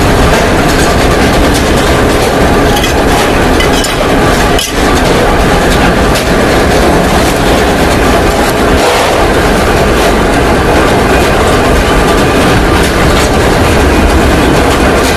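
Loud, continuous rattling clatter of workshop machinery in a mudguard-making shop, with a brief lull about four and a half seconds in.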